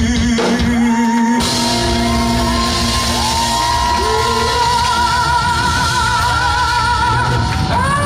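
A live rock band plays while a singer holds long, high sung notes with vibrato over steady drums and bass.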